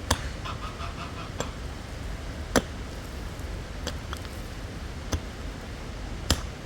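Regular sharp strikes of a hand tool, six in all, about one every second and a quarter, the third and sixth loudest.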